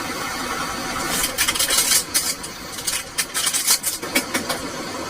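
Light clatter and rustling of a camp pot and its contents being handled while cooking ramen, a run of irregular clinks from about one to four seconds in, over a steady hiss.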